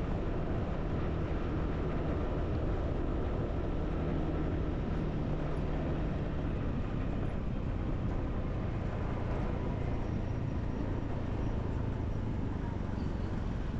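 Motorbike engine running steadily on the move, with a low hum under steady wind and road noise.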